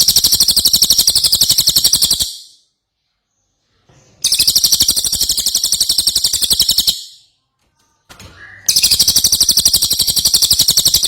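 Cililin songbird singing in full voice: long, loud, high-pitched trills of rapid, evenly repeated notes, three phrases of about two and a half to three seconds each with short pauses between them.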